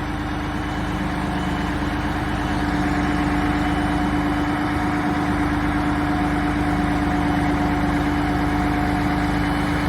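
Mack heavy-duty truck's diesel engine idling steadily, with a constant hum.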